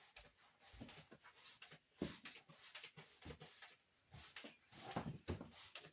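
Faint, irregular rubbing and scraping strokes from a scrubbing pad working grease off a kitchen surface.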